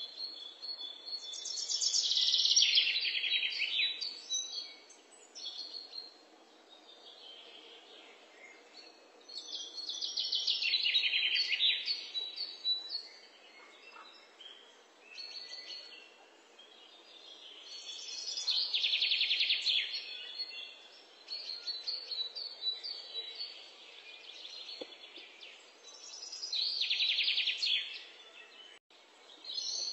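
A bird singing a rapid high-pitched trill, four times, each lasting two to three seconds and coming about every eight seconds, over faint steady outdoor ambience.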